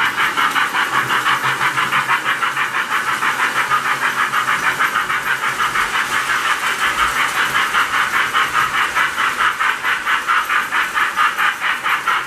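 Toy steam locomotive sound effect from the tender of a Lionel postwar #746 J-class engine: a loud white-noise chuff repeating steadily about five times a second as the train runs.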